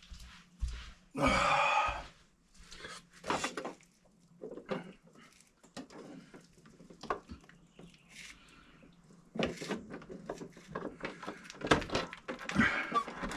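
Scattered knocks, thumps and clicks of things being handled, with a brief rustle about a second in and a faint steady low hum underneath.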